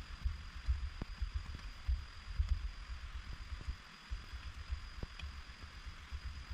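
Steady hiss of heavy rain, with an uneven low rumble of wind buffeting the microphone and a few sharp ticks of drops striking close by.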